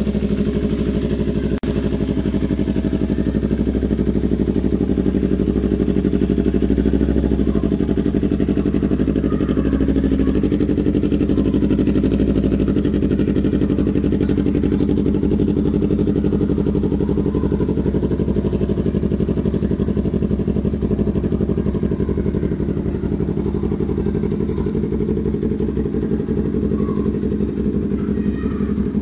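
Yamaha R25's 249 cc parallel-twin engine idling steadily through an SC-Project full-system exhaust.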